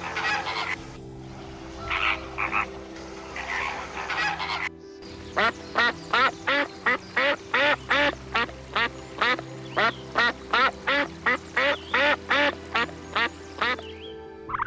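Frogs croaking in short rough bursts, then, after a cut, a different animal call repeated evenly about two to three times a second for some eight seconds.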